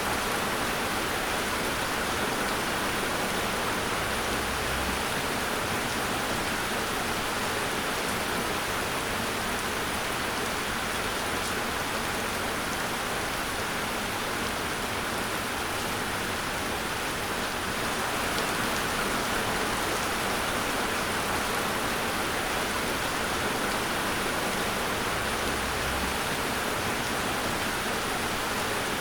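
Steady rain falling, an even hiss of many drops with no separate drips or thunder standing out.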